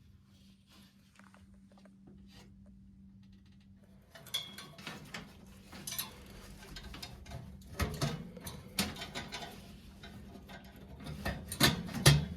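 Hands and tools working on metal gas-boiler parts during reassembly of the burners and thermocouple: irregular clicks, clinks and knocks that begin about four seconds in and get louder near the end. A faint steady low hum runs underneath.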